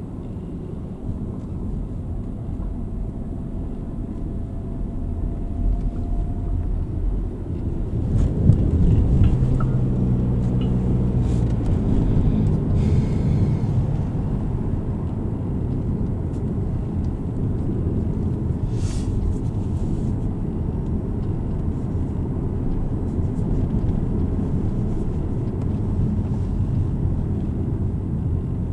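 Car cabin noise while driving: a steady low engine and road rumble that grows louder about eight seconds in.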